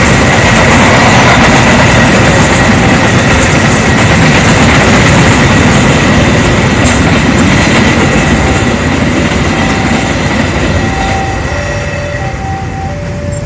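Train hauling empty coaches at speed, its wheels running on the rails with a steady high ring over the rumble. The noise fades over the last few seconds as the train draws away. From about two-thirds in, a faint two-note tone alternates.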